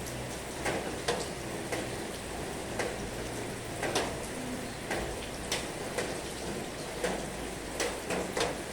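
Heavy rain falling in a steady hiss, with separate heavy drops hitting a hard surface at irregular moments, a couple of times a second.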